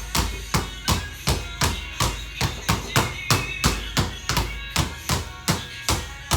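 Basketball dribbled rapidly on a hard court, sharp bounces about three a second, with a brief shoe squeak about halfway through.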